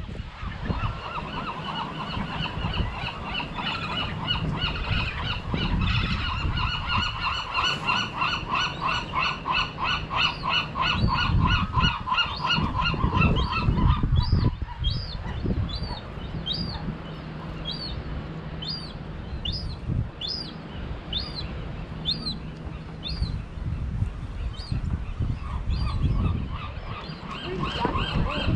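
Birds calling: a long run of rapid repeated calls, about three a second, for roughly the first half, then higher, short falling calls about once a second. Footsteps on pavement run underneath.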